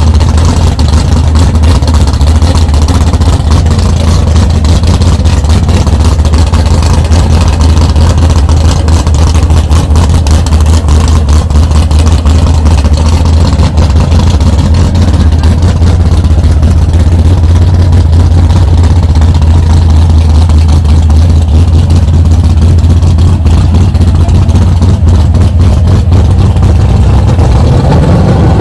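Car engine idling close by, a loud, steady low rumble, with the pitch starting to rise near the end as it is revved.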